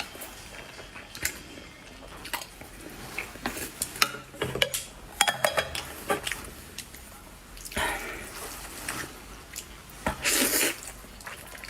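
Utensils clicking and scraping against a bowl while stirring and eating spicy noodles, with a louder rushing noise about ten seconds in.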